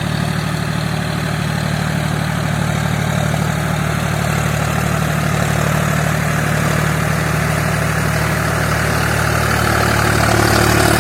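John Deere 5050D tractor's three-cylinder diesel engine running steadily, getting a little louder near the end.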